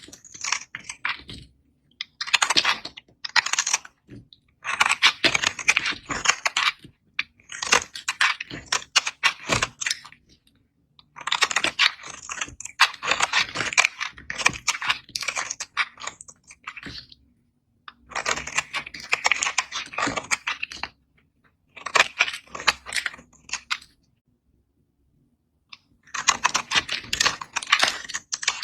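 Knife cutting into dry bar soap: crisp crackling crunches in repeated bursts of one to a few seconds, with short silences between the cuts.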